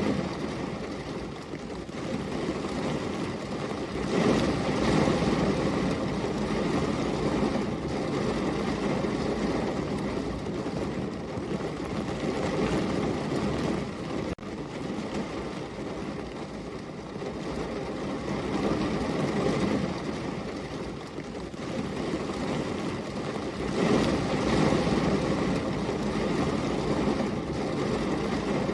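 Steady heavy rain, a dense rushing noise weighted toward the low end, swelling louder about four seconds in and again near the end.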